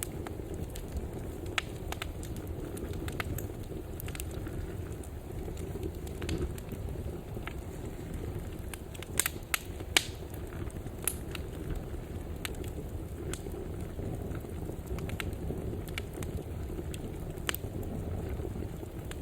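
Wood fire burning in a fireplace: a low steady rumble of flames with scattered sharp crackles and pops, the loudest a few close together about nine to ten seconds in.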